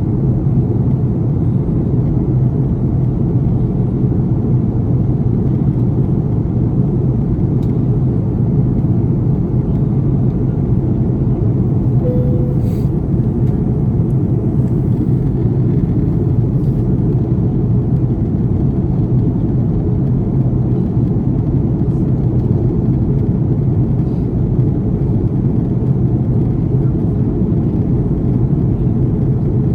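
Steady low roar of engine and air noise inside the cabin of an Airbus A330 airliner, with a brief faint tone about twelve seconds in.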